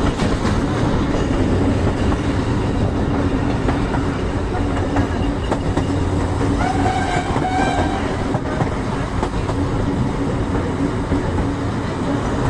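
Passenger train running along the track, heard from an open carriage window: a steady, loud rumble of wheels on rail. About seven seconds in a horn sounds two short blasts.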